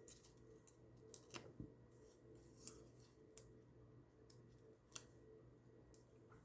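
Faint, scattered small clicks and snips from handling paper pieces and foam adhesive while making a card, spaced irregularly over a very quiet room.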